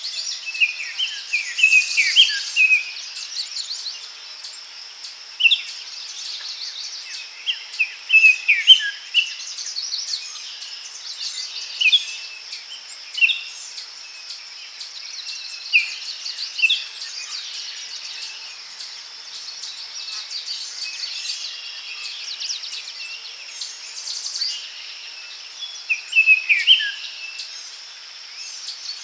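Daytime forest ambience: birds chirping and calling at intervals over a steady high-pitched insect drone.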